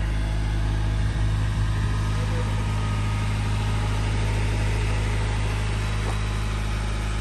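A car engine idling steadily, an even low hum with no change in speed.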